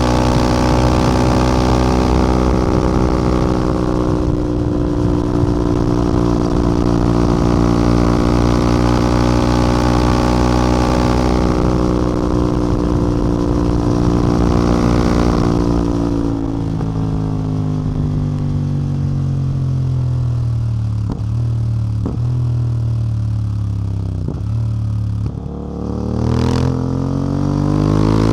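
CF Moto 450MT's parallel-twin engine and exhaust under way at steady speed with wind hiss. About sixteen seconds in, the throttle closes and the engine note falls as the bike slows, with a few short clicks. Near the end the pitch rises again as it accelerates.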